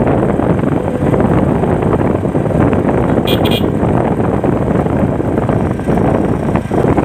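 Steady wind rush and road noise on the microphone while riding, with two quick horn beeps about three seconds in.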